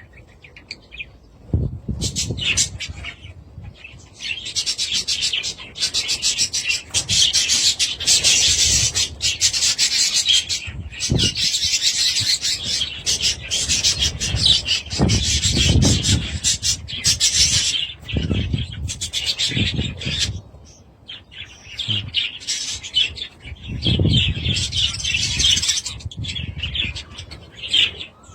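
Budgerigars chattering and warbling in a fast, dense stream of high chirps that pauses briefly now and then, with occasional low rubbing thumps underneath.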